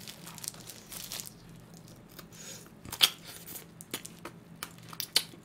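Close-miked eating sounds: pork rib meat being bitten, torn off the bone and chewed, a run of small wet clicks with one sharp snap about three seconds in.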